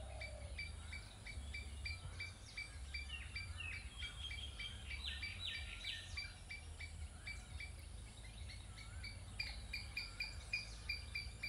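Birds calling: one short chirp is repeated evenly about three times a second, while other birds call over it, busiest in the middle and again near the end. A low rumble runs underneath.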